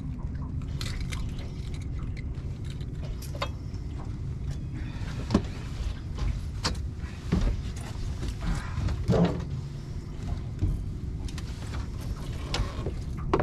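Steady low rumble with irregular knocks, clicks and thumps in a fishing boat, as a catfish is brought in and handled; the loudest knocks come about five to nine seconds in.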